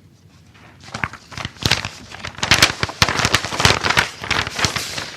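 Paper crackling and rustling close to the microphone as a sealed bid envelope is opened and its pages handled. Dense crackling starts about a second in and grows louder.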